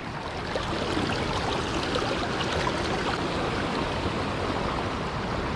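Steady rush of water pouring over a lake spillway.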